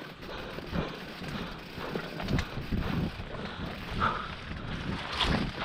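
Mountain bike riding over a rough dirt trail: tyre noise with irregular knocks and rattles, and wind buffeting the microphone.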